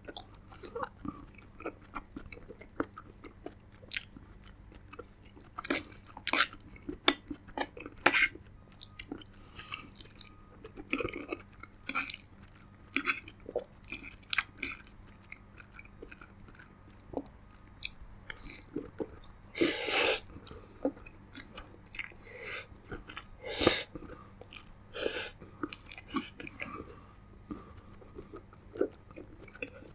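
Close-miked eating sounds: chewing with wet mouth clicks and lip smacks at an uneven pace, with a few louder bursts about twenty and twenty-four seconds in.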